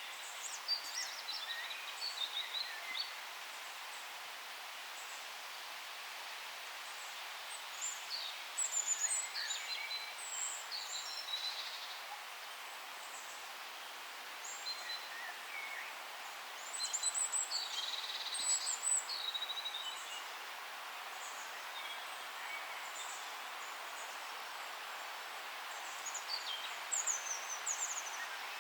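Several songbirds singing in short clusters of high chirps and trills, four bouts with lulls between, over a steady hiss of forest background.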